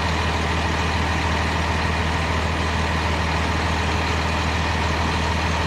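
An engine idles steadily, a constant low hum that does not change.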